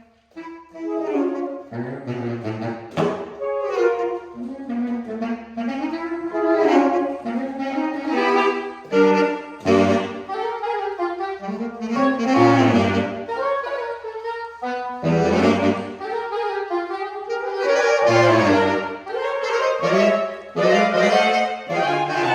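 Saxophone quartet (soprano, alto, tenor and baritone saxophones) playing contemporary concert music: several parts moving at once over punctuated baritone notes, with sharp accented entries.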